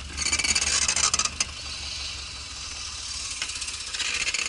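1983 Pontiac Trans Am's 305 small-block V8 idling low and rough with a steady low pulse, struggling to keep running as the smoking engine falters. A hissing, crackly noise lies over it, loudest in the first second and a half and again near the end.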